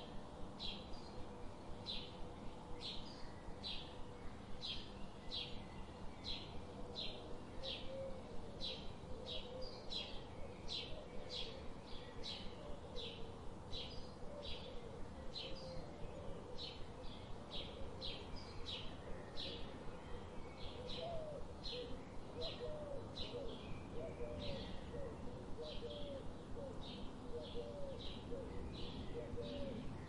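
A small bird chirping over and over, with short, sharp, high chirps about two a second. Fainter, low, wavering notes join about a quarter of the way in.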